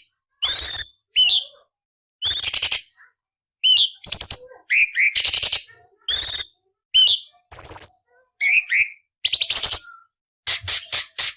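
Orange-bellied leafbird (cucak cungkok) singing a string of short, separate phrases about once a second: hooked whistled notes alternating with harsh, rasping bursts, and a quick run of clicks near the end.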